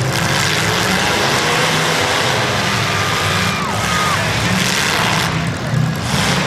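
Demolition derby car engines running loudly together, with a steady low engine drone under a broad noisy din.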